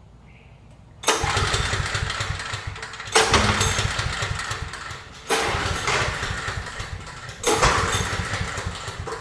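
Briggs & Stratton 5500-watt generator engine cranked four times, each attempt a sudden burst of engine turning over that fades away after about two seconds without catching: the engine fails to start.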